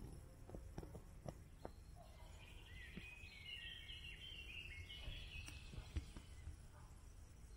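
Faint forest ambience: a songbird sings a quick run of short high notes for about three seconds in the middle, over a low rumble and scattered soft clicks.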